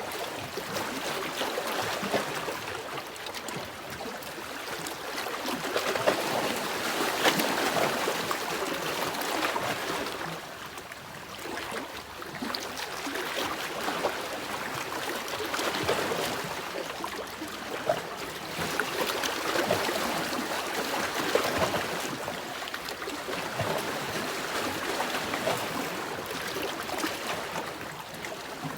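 Small waves washing in and draining back, a continuous splashing and trickling wash that swells and eases every several seconds.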